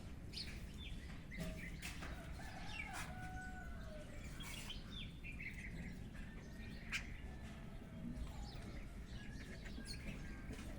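Chickens clucking, with scattered short chirps and calls of other birds over a faint steady background noise.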